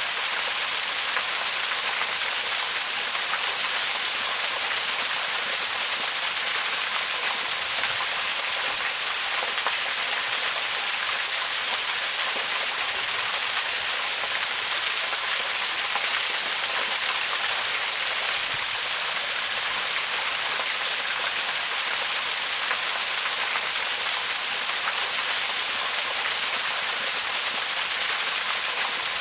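Waterfall: a steady, even rush of falling water, mostly a bright hiss with little low rumble.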